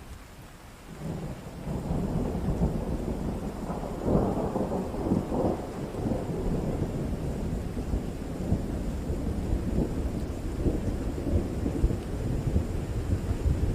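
Steady rain with a long roll of thunder that swells up about a second in, is loudest around four to five seconds in, and keeps rumbling on.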